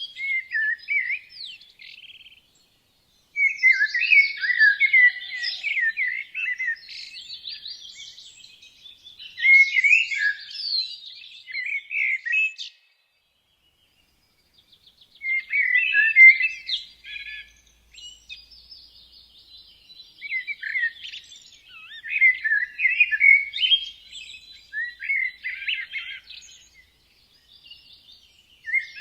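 Songbirds singing and chirping in bouts of quick chirps and trills, with two short breaks when the birds fall silent.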